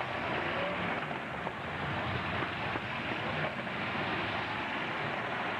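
Steady, dense din of demolition-derby truck engines running.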